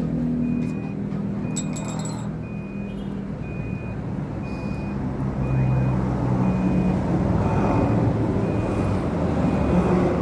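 A vehicle engine running, with a thin electronic beep repeating about once a second, like a reversing alarm.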